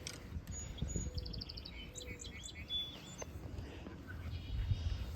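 A small songbird chirping: a quick run of short high notes about a second in, then a few more calls, over a low steady outdoor rumble.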